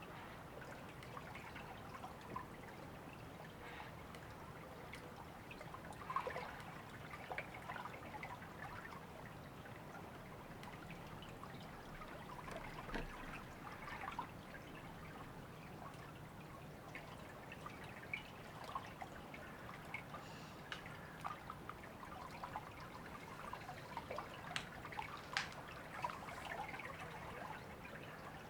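A small river trickling and babbling: a steady wash of water with many small splashes and drips scattered through it.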